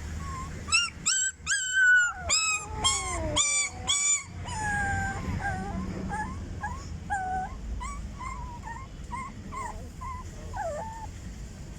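Dog whining and yelping: a quick run of about seven loud, high calls in the first few seconds, then a long string of softer short whines.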